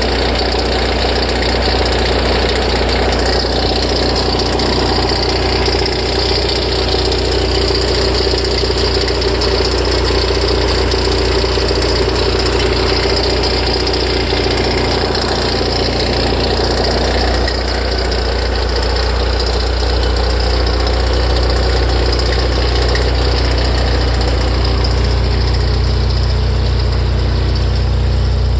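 Ferrari F355's 3.5-litre V8 idling with an abnormal mid-pitched drone from the front of the engine, the noise the owner hears for a while after a start. About two-thirds of the way through the drone fades away and the idle settles into a steadier beat.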